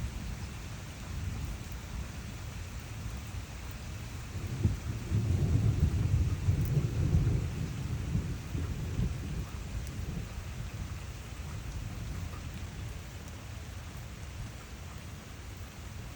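Steady rain falling during a thunderstorm, with a deep rolling rumble of thunder starting about four and a half seconds in, loudest for a few seconds, then dying away.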